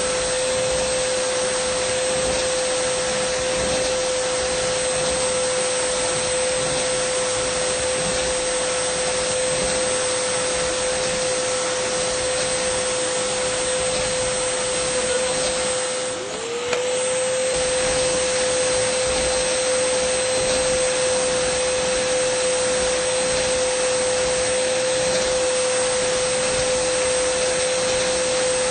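Dyson vacuum cleaner running steadily: a constant high whine over a rushing airflow hiss. About halfway through, the sound dips briefly and the whine sags, then slides back up to its pitch.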